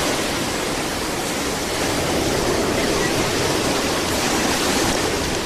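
Ocean surf: a wave breaking and washing up the beach, a steady rushing that swells through the middle and eases near the end.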